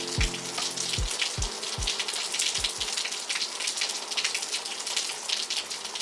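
Steady rain with a fine pattering of drops. A few low thumps of a lo-fi beat's kick drum sound in the first half, then only the rain continues.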